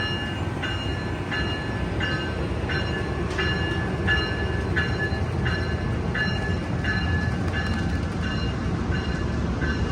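Amtrak Capitol Corridor passenger train rumbling at the station, with a bell ringing steadily about once every 0.7 seconds over it.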